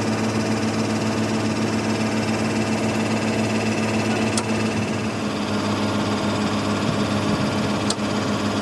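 Steady hum of a running engine, with two sharp clicks, one about four seconds in and one near the end.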